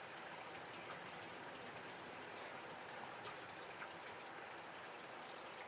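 Rain falling steadily as a faint even hiss, with a few scattered drops ticking close by.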